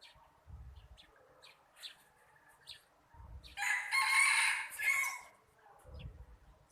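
Bird calls: faint short high chirps, and about halfway through one loud, harsh call lasting about a second and a half.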